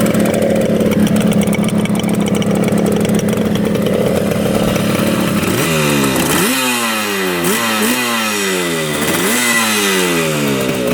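1975 Yamaha RD200 two-stroke twin engine running on both cylinders at a steady fast idle of about 2,000 rpm. About halfway through, the revs drop, then rise sharply and fall back a few times as the throttle is worked.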